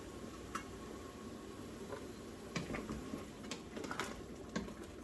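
Light kitchen handling: a handful of faint, scattered clicks and taps of utensils and containers, most of them in the second half.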